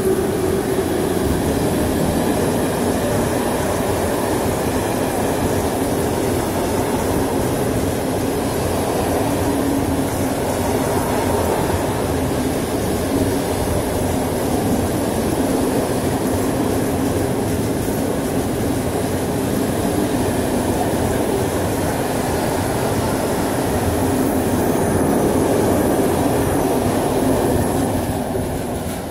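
Electric locomotive 182 085-1 passing close by, followed by a long train of loaded tank wagons rolling past: a steady, loud rumble of steel wheels on rail with a thin high whine over it, easing off at the very end as the train moves away.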